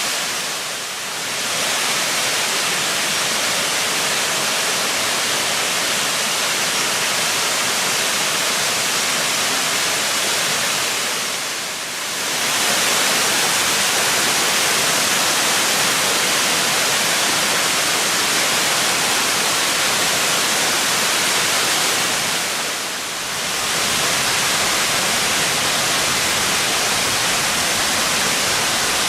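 Waterfall: a loud, steady rush of falling water that dips briefly three times.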